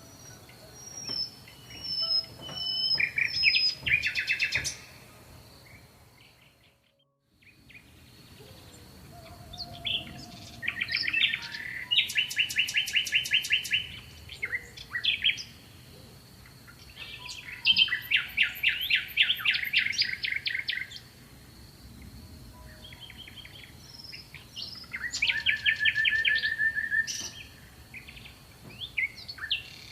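Songbirds singing in repeated fast trilled phrases, several bouts with short pauses between them, with a faint steady high-pitched note underneath. The sound drops out almost completely for about a second near the quarter mark.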